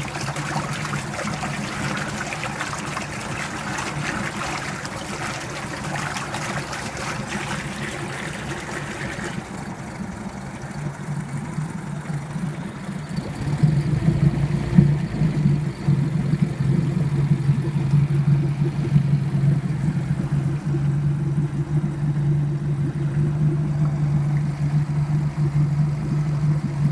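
Tohatsu MFS 9.9 D four-stroke outboard motor running in a test barrel, a steady engine hum, with water splashing for the first third. About halfway through the engine gets louder and stays so.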